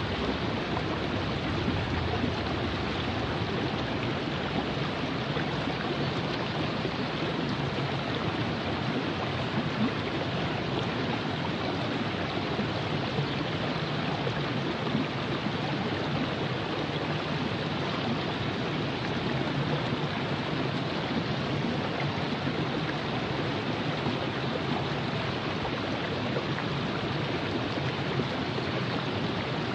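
Virgin River running over rocks: a steady, even rush of flowing water.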